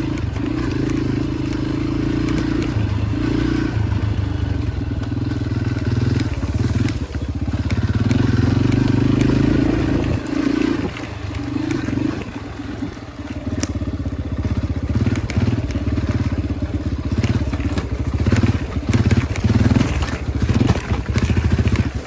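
Yamaha dirt bike engine running under way on a trail, fairly steady for about the first ten seconds, then rising and falling in short bursts of throttle. Knocks and crunching from the bike going over rough ground are mixed in.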